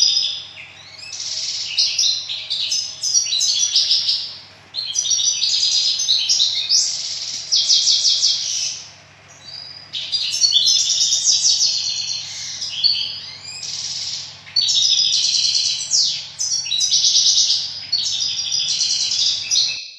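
Small pet birds chirping and twittering in rapid, overlapping calls and trills, with brief lulls about 4 and 9 seconds in, over a faint steady low hum.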